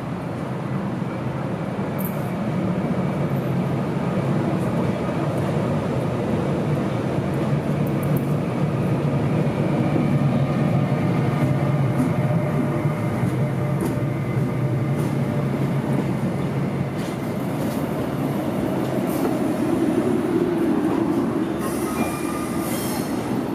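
Passenger train hauled by a Korail Class 8200 electric locomotive passing close by over a level crossing: a steady, heavy rumble of wheels on rails with a few sharp clicks as wheels cross rail joints. The sound cuts off abruptly at the very end.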